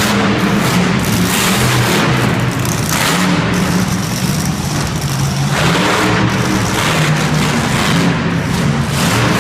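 Monster truck engine running loud and revving up and down, its pitch rising and falling repeatedly.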